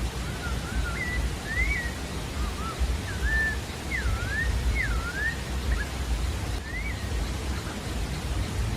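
Sabiá-da-várzea singing a run of short whistled notes that rise and fall, one after another, falling silent about seven seconds in, over a steady low rushing background noise.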